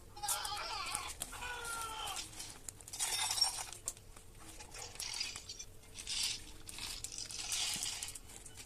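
Plastic wrapping crinkling and rustling in irregular bursts as it is handled, with a faint wavering voice or call in the first couple of seconds.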